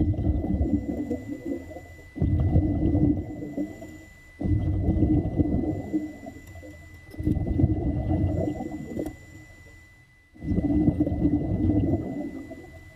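Water rushing or bubbling in five low bursts, each starting suddenly and fading over about two seconds, with a faint steady high tone underneath.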